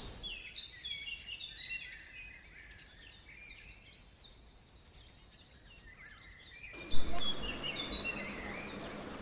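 Birds calling: a rapid series of short, high chirps that each fall in pitch. About seven seconds in the background changes with a sudden loud sound, and more chirps follow.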